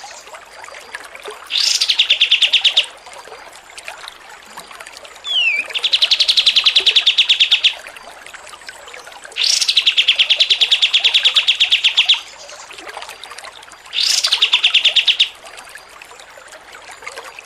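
Songbird singing rapid, pulsed chattering trills, four of them each a second or two long, several opening with a quick upward sweep and one preceded by a short downward slur, with soft chips between.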